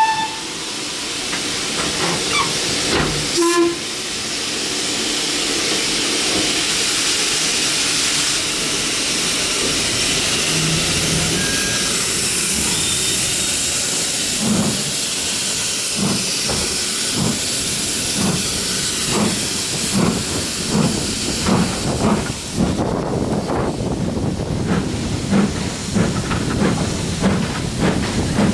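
Steam locomotive hissing steam, then from about halfway a regular beat of exhaust chuffs that come closer together as it gathers speed.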